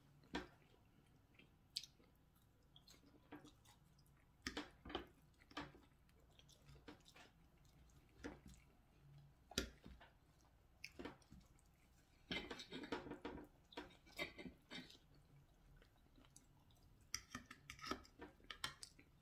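Close, faint chewing of gyro cheese fries, with scattered soft clicks and taps from a fork at the plate; the chewing comes in short clusters, busiest about two-thirds of the way through and again near the end.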